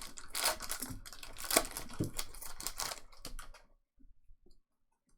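Trading card packs being handled: foil wrappers crinkling and tearing open and cards rustling in a run of quick crackles. The crackling stops about three and a half seconds in.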